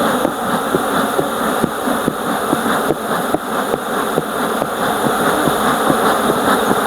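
Honeybee colony buzzing from the opened hive, a steady dense hum of many bees: a sign the colony is very active.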